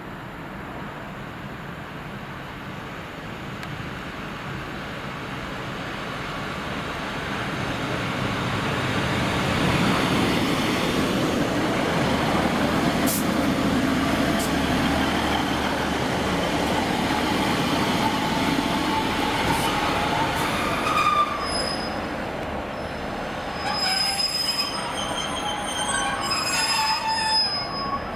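A train running in on the line, its rumble building over about ten seconds and holding loud. In the last seven seconds come several high, wavering metal-on-metal squeals.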